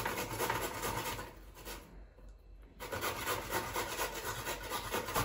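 Hard raw pumpkin being grated on a hand grater: quick, even rasping strokes, stopping for a moment about a second and a half in and then starting again. The pumpkin is hard and grates with difficulty.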